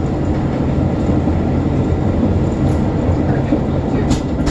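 Passenger train running on the rails: a steady low rumble, with a short click at the start and another near the end.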